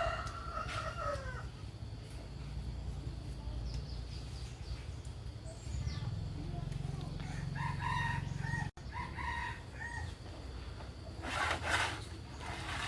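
Rooster crowing once at the start, with shorter calls about eight and nine seconds in, over a steady low hum. A brief scraping noise comes near the end.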